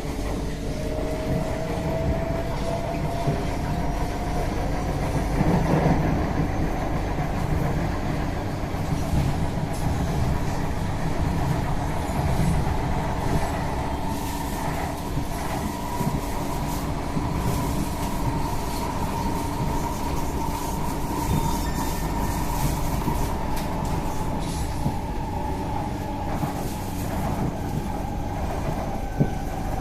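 Singapore MRT C151A train running between stations, heard from inside the car: a steady rumble of wheels on rail under the whine of the electric traction motors. The whine rises in pitch over the first few seconds, holds, then slowly falls through the later part.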